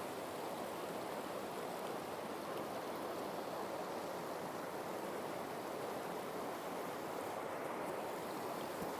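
Icy mountain creek rushing steadily.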